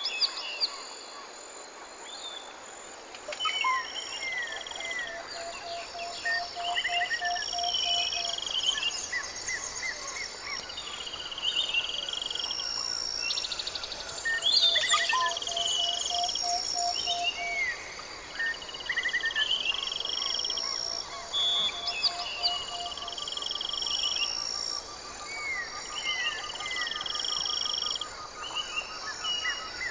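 Several forest birds calling over one another: repeated trills, short downward-sweeping whistles and a lower run of evenly spaced notes that comes back several times, over a steady high buzz of insects.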